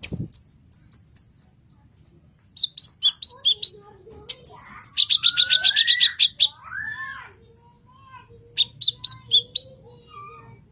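Sumatran leafbird (cucak kinoy) singing: several runs of short, sharp, high chirps, with a fast rapid series about midway and lower sliding notes in between.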